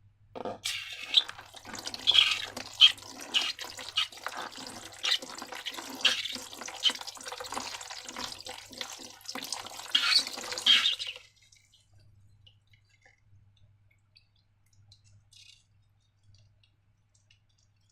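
Slime being squished and stretched by hand: a dense run of wet, sticky clicks and squelches for about ten seconds, stopping about eleven seconds in.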